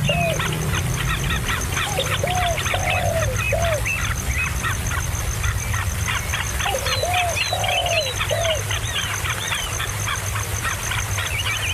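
Birds calling: dense, rapid high chirping throughout, with a lower three-part call repeating about every five seconds. A faint, fast-pulsing high tone runs underneath.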